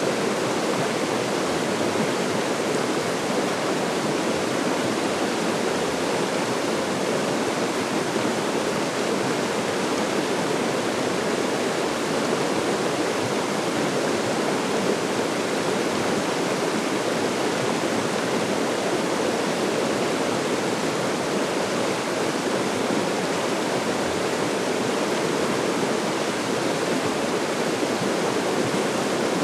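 Steady rush of a small river's flowing water, even and unbroken.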